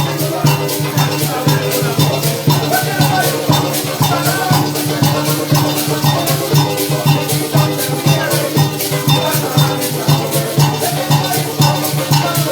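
Parang band music with a fast, steady maraca rhythm over a bass line and a melody.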